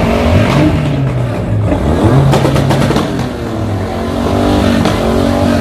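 A car engine revving again and again, its pitch climbing and dropping, amid the general noise of a large crowd.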